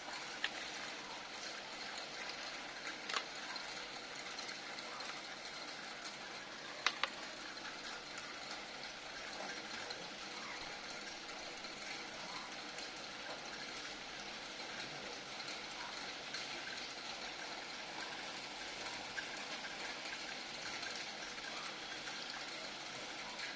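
Steady background hiss with a few short, faint clicks: one just after the start, one around three seconds in, and a quick pair near seven seconds.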